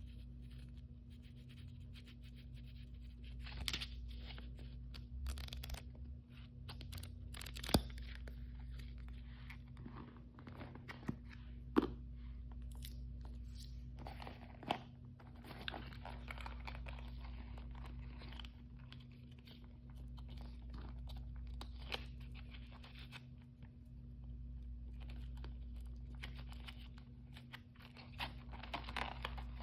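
Plastic blind-bag packaging being crinkled and torn open by hand, with irregular crackling and a few sharp clicks, over a steady low hum.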